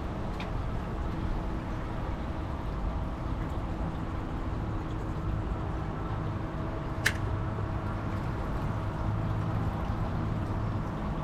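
Steady wind and water noise around a fishing kayak, with a faint steady hum and one sharp click about seven seconds in.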